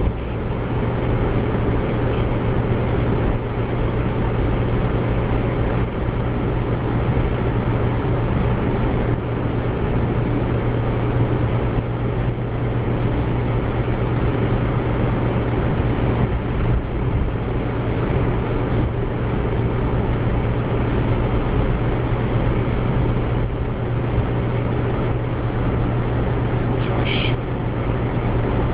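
Steady engine hum and road noise inside a car driving at speed on a motorway.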